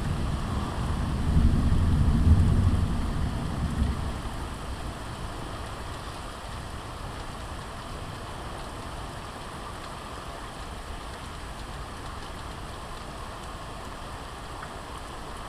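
Thunder rumbling deep and low for the first few seconds, then dying away, leaving steady rain falling.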